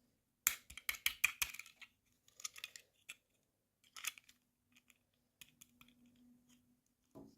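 Quick sharp clicks and taps of small plastic pieces being handled during an unboxing, with a dense run of clicks about half a second in, then scattered taps and a light rustle.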